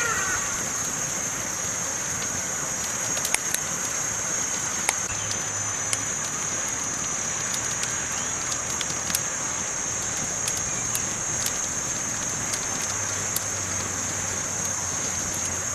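Campfire burning, crackling with scattered sharp pops over a steady hiss, with a constant high-pitched hiss above it.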